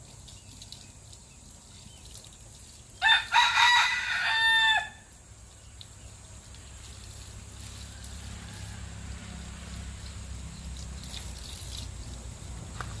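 A rooster crows once, about three seconds in: a single call nearly two seconds long that ends on a held, falling note. A low steady rumble rises faintly later on.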